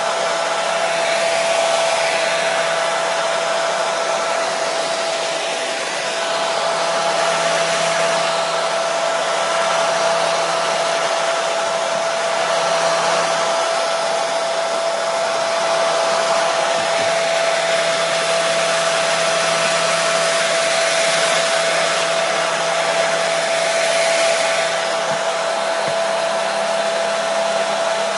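Hair dryer running continuously: a steady rushing hiss of blown air with a constant motor hum, played as white noise to soothe colicky babies to sleep.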